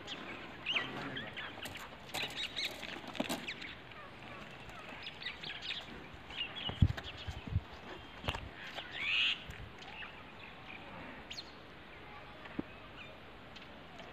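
Birds calling in short chirps now and then, with scattered clicks and a sharp thump about seven seconds in, followed by a smaller one.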